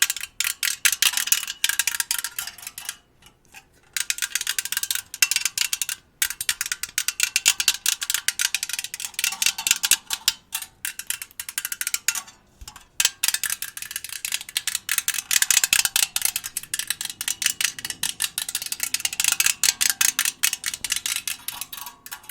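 Small jingle bells shaken in quick rattling runs, with a few short pauses between them.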